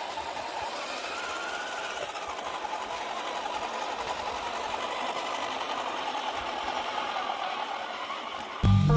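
Electric motor and gear whine of a radio-controlled off-road crawler truck, running steadily. Music with mallet percussion starts suddenly near the end.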